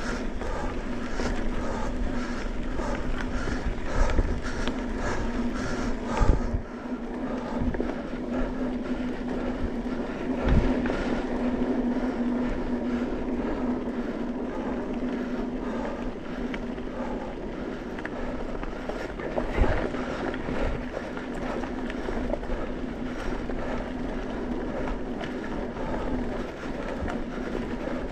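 An off-road vehicle running steadily along a rough dirt trail: a constant drone with rattling, and a few sharp knocks about 4, 6, 10 and 20 seconds in as it goes over bumps.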